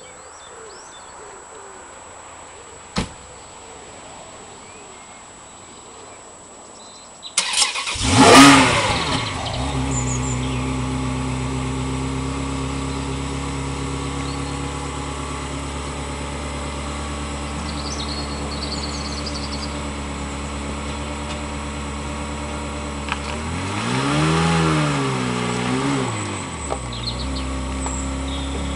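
Ferrari 360 Modena V8 being started: after a quiet stretch the starter turns it over about seven and a half seconds in and the engine catches with a loud flare, then settles into a steady idle. Near the end it is revved once, the pitch rising and falling before it drops back to idle.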